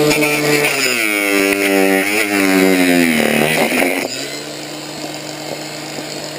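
A motor running with its pitch wavering up and down under a hiss, then settling to a quieter steady hum about four seconds in.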